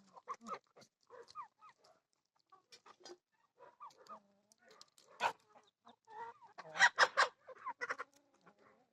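Chickens clucking in a string of short calls, with a louder run of clucks about seven seconds in.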